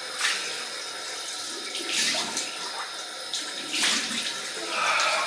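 Cold tap running into a bathroom sink while the face is rinsed with splashes of cold water after a shave, with a few louder splashes about two, four and five seconds in.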